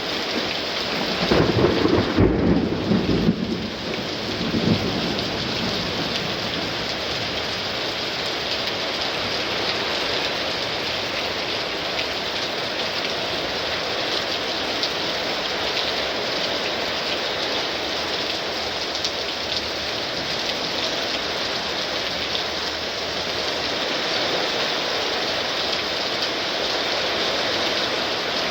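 Heavy rain pouring steadily, with a loud thunderclap and rumble about a second in that dies away within a few seconds.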